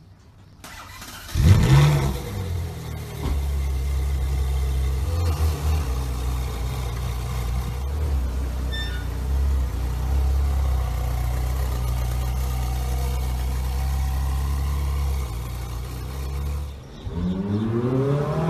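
Ferrari 458 Speciale Aperta's V8 engine starting with a sharp flare about a second and a half in, then settling into a steady idle. Near the end it is briefly revved, the pitch rising and falling.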